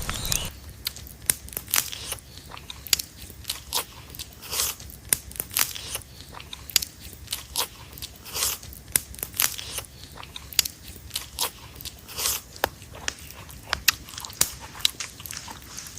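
Biting and chewing crisp roast pork, with irregular crunches and crackles, often several a second.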